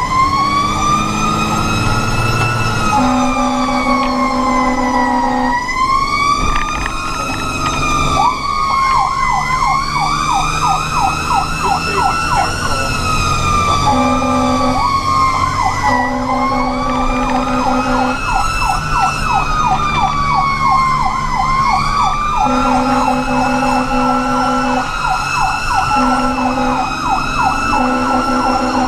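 Fire engine running code: its siren wails up and down about every four seconds, with a second, much faster sweeping siren tone over it for long stretches, and an air horn sounding in repeated long and short blasts.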